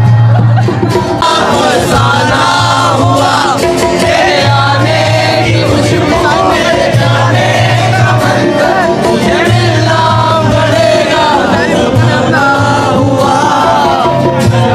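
Qawwali: a male voice singing with amplified musical accompaniment, with a low held note that sounds, stops and comes back every few seconds.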